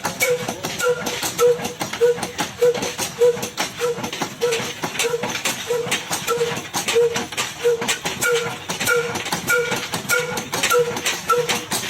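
Old single-cylinder Ruston Hornsby diesel engine running steadily with a slow, even beat of about one and a half strokes a second, along with a continuous clatter of sharp clicks from the belt-driven chaff cutter.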